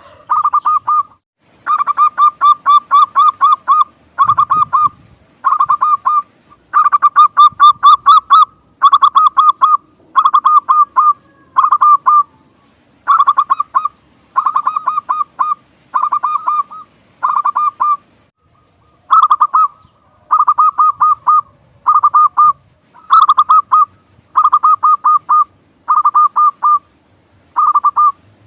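Zebra dove (perkutut) cooing: short, loud phrases of rapid staccato notes, repeated about once a second with a brief pause about two-thirds of the way through.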